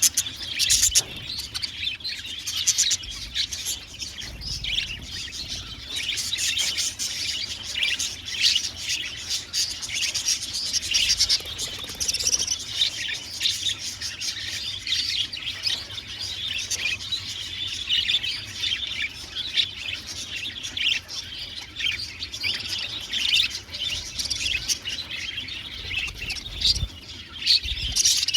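A flock of budgerigars chirping continuously, many short calls from several birds overlapping.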